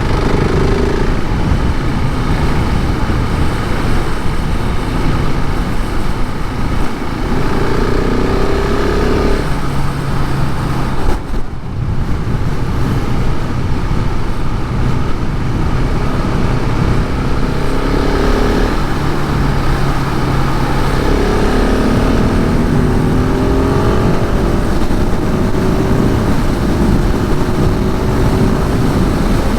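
KTM 690 SMC R supermoto's single-cylinder engine through its stock exhaust, ridden under way: the revs climb several times as it pulls through the gears and drop back between them, with a brief lull a little after ten seconds. A steady rush of wind runs underneath.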